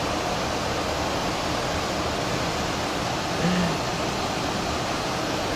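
Steady rushing noise of airflow and air conditioning inside an airliner cruising at altitude.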